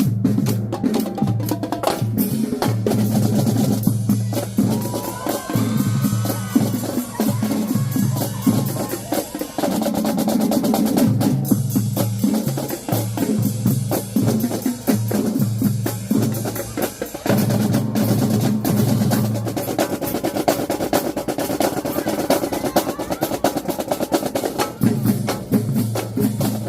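Marching drumline playing a loud cadence: rapid snare drum strokes and rolls over pitched bass drum notes, the bass drums dropping out for a few seconds near the end.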